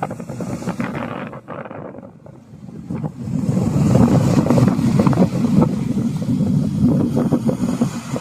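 Wind buffeting the microphone in a strong gust, a rough low rumble that dips briefly and then grows much louder about three seconds in.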